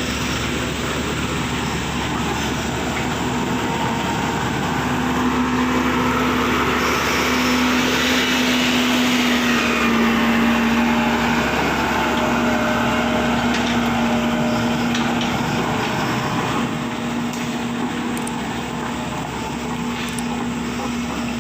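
An engine running steadily with a slightly wavering pitch, getting a little louder around the middle and easing off toward the end.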